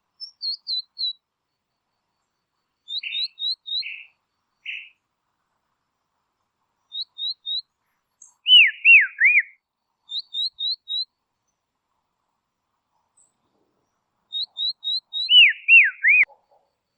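Songbird calling: groups of three or four short, high chirps repeated every few seconds. Twice, around the middle and near the end, comes a louder run of three downward-sweeping whistled notes.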